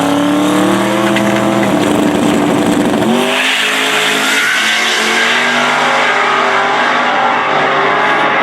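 No-prep drag race car at full throttle, its engine pitch climbing steeply, then dropping on a gear change about three seconds in and climbing again.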